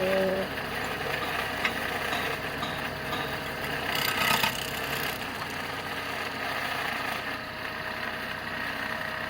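Car engine idling with a rattling noise from the drive belt's auto-tensioner, whose bearing is bad and moves sluggishly. A faint steady whine runs under it, with a brief louder burst of noise about four seconds in.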